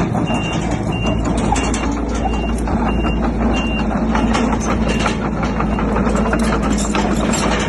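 Heavy diesel construction machine running steadily, its reversing alarm giving short high beeps about one and a half times a second that stop about halfway through, with scattered metallic clanks.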